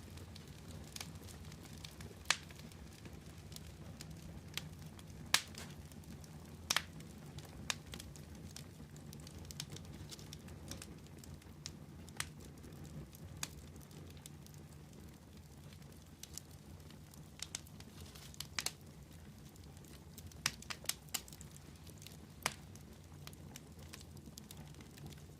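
Wood fire crackling: sharp, irregular pops and snaps over a steady low rumble of the flames.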